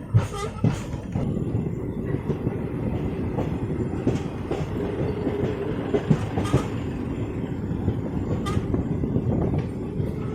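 Kanchankanya Express passenger train running along the track, a steady rumble of the wheels with scattered sharp knocks as they cross rail joints.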